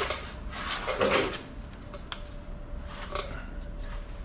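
Metal bolts and hand tools being handled: a sharp clack at the start, a louder rattling clatter about a second in, then a few light clicks.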